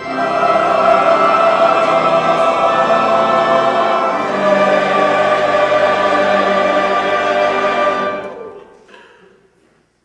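Church choir singing two long held chords, moving to the second about four seconds in, then releasing. The sound dies away in the chapel's echo near the end.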